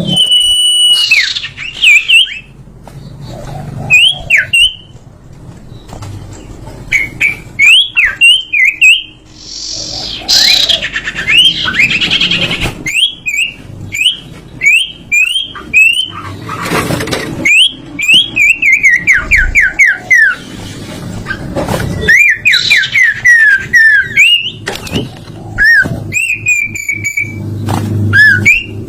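A songbird's loud whistled song: repeated sharp chirps, quick up-and-down slurs and rapid falling trills in short bursts with brief gaps. It is a tutoring (masteran) recording of the sertu bird's 'tembakan' phrases.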